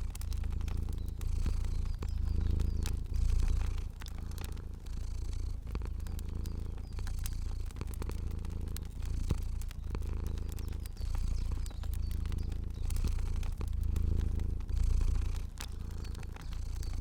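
Domestic cat purring, a low rumble that swells and fades roughly once a second with each breath. Faint crackles from a fire pop here and there over it.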